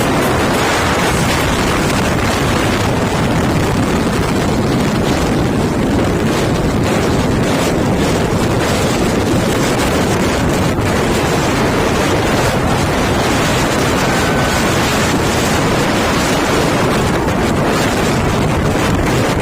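Loud, steady rush of wind on the microphone over a moving truck.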